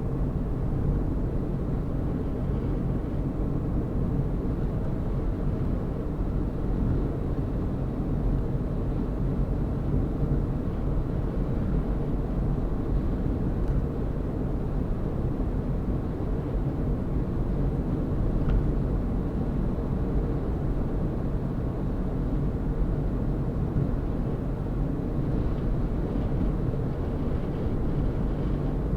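A car driving at a steady pace, with a low, even hum of engine and tyre road noise that does not change.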